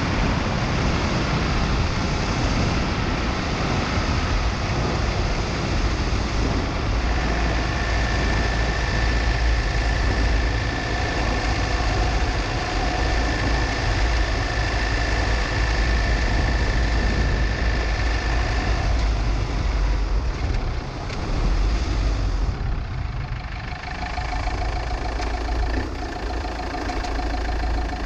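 Car-mounted action camera picking up wind buffeting and road noise with the car's engine running. A steady high whine holds for about ten seconds in the middle. Near the end the noise drops and the engine settles to a steady idle.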